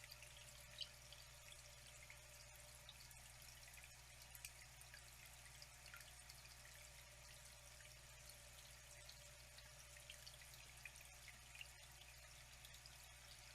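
Faint, steady trickling water with many small drips and splashes scattered throughout.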